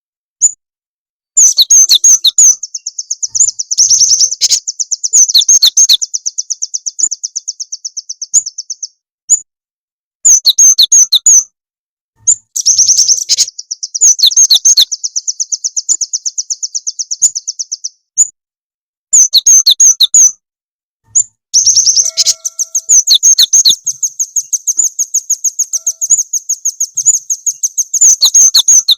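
Recorded small songbird call used as a lure for cinereous tits and nuthatches: loud, high chirps that break into very fast trills lasting several seconds, three times over, with pauses of single chirps in between.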